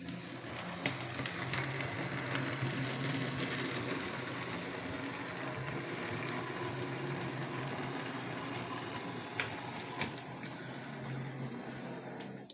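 00 gauge model locomotive running along the track, its small electric motor whirring steadily with a few sharp clicks from the wheels on the rails, then cutting out abruptly near the end.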